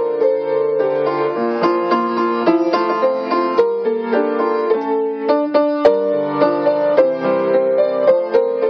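Solo piano playing a gentle melody over a chordal accompaniment, with notes struck in quick succession.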